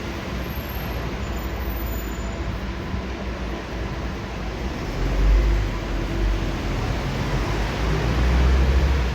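City street traffic: a steady rumble of road vehicles, with one passing vehicle swelling louder about five seconds in and another near the end.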